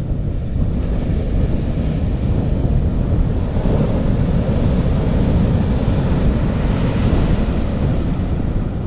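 Sea waves washing onto a beach: the surf's hiss swells from about three seconds in and eases toward the end, over a steady low rumble of wind on the microphone.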